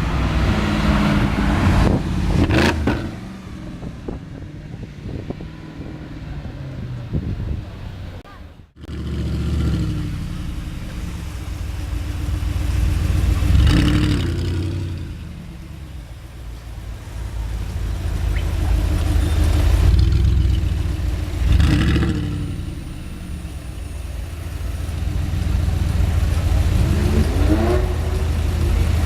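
Audi R8 engine running and being revved as the car drives, with short rises in pitch several times, the last near the end. The sound cuts out for a moment about a third of the way in.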